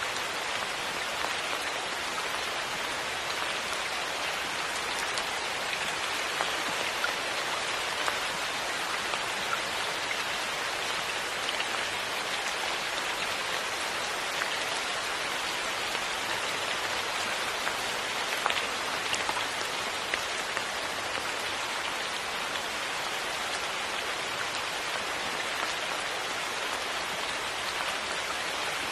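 Steady rain falling, an even hiss with scattered individual drops ticking louder now and then.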